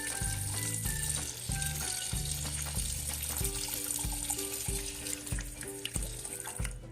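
Water running from a tap, rinsing salt and sand off a solid silicone reborn doll, over background music with a steady beat. The running water stops near the end.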